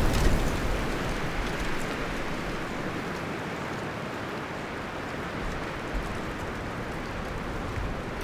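Wind rustling the leaves and branches of a forest: a strong gust dies away over the first second or two, leaving a steady rush.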